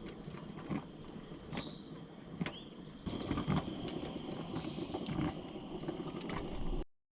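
Scattered light knocks and clinks, with a few short rising chirps and a faint steady high tone from about three seconds in. The sound cuts off abruptly near the end.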